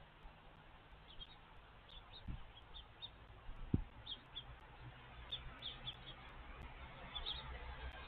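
Small birds chirping faintly, in short scattered high chirps, over a low steady hum. Two dull thumps come near the middle, the second louder.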